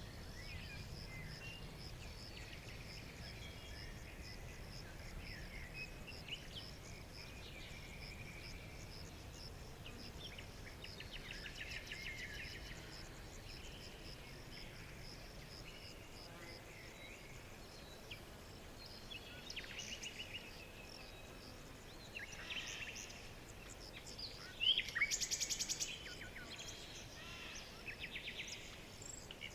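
Several birds chirping and calling with short, scattered phrases, over a steady high pulsing trill in the first third. About 25 seconds in, a louder burst of rapid repeated bird notes stands out.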